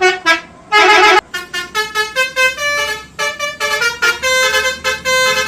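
Basuri telolet bus horn playing a tune: two short blasts, then from about a second in a quick run of short notes stepping up and down in pitch.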